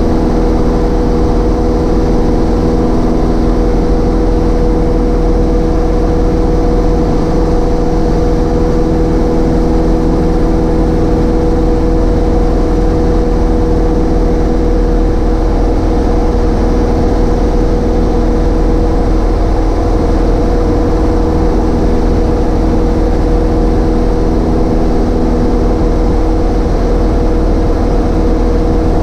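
Cessna 152's four-cylinder Lycoming piston engine and propeller running steadily, a loud, even drone with a constant hum and no change in power.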